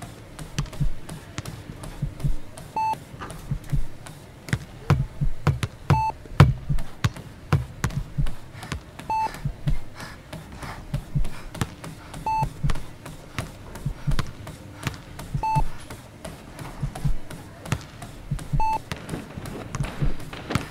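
Short electronic heart-monitor-style beep about every three seconds, over a busy, irregular pattern of low thumps and sharp clicks.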